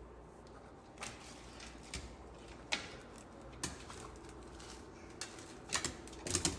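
A few scattered light taps and scuffs over a low steady background, coming irregularly and closer together near the end.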